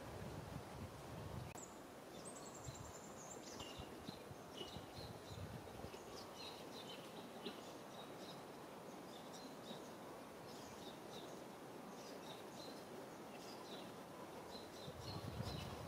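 Small birds chirping and twittering faintly over a steady background hiss. Short high calls begin about a second and a half in, with a quick falling run of notes soon after, and continue on and off.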